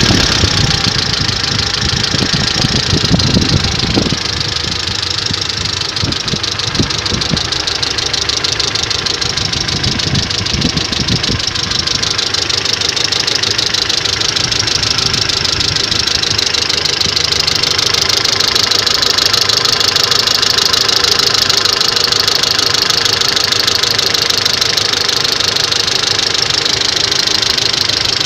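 Mercedes-Benz W202's M111 four-cylinder petrol engine idling steadily with a rapid, even knocking that comes on while it warms up. The knock appeared after an oil change, and the owner wonders whether the oil is the cause.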